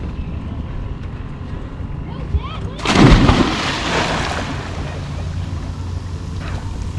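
A big splash about three seconds in, a person jumping into the water, dying away over about a second and a half, over a steady low rumble.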